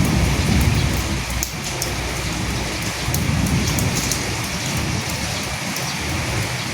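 Steady rain falling on dead leaves, with many small drop ticks over an even hiss and a low rumble underneath that comes and goes.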